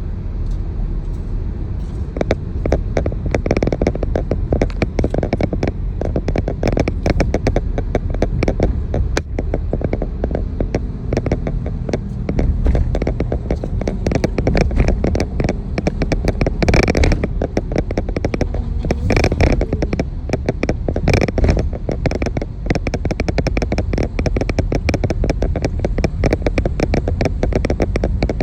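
An engine running close by: a constant low rumble with rapid, uneven crackling clicks, a little louder in the middle stretch.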